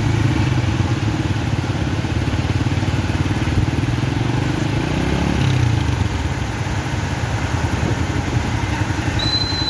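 A small engine running steadily with a low, fast pulsing, and a brief high chirp near the end.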